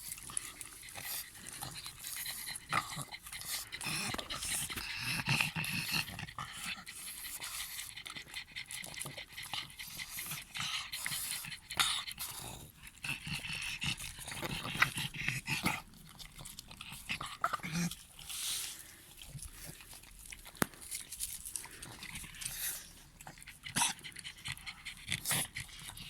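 Pug puppy eating a piece of apple: irregular crunching and chewing clicks mixed with its breathing.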